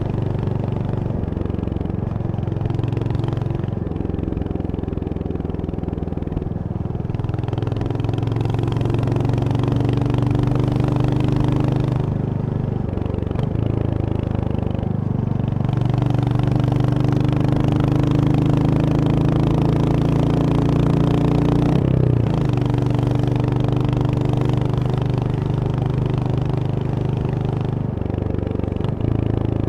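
Royal Enfield Hunter 350's single-cylinder engine running on the move, its note rising and falling with the throttle, with brief dips about halfway through and again later.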